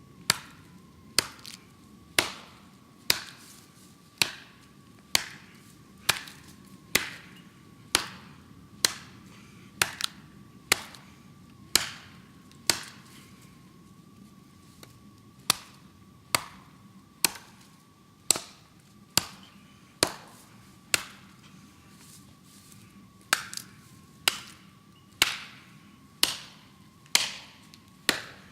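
Golok chopping into a tree trunk, steady blows about one a second, with a short pause about halfway through.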